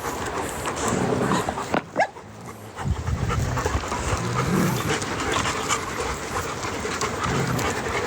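Dog panting close by, with a stronger low rumble from about three seconds in.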